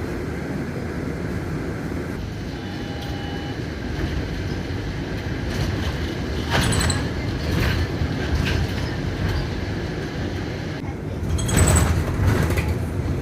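Inside a moving city bus: a steady low rumble of engine and road, with rattling knocks from about halfway through and a louder surge with a brief high squeal near the end.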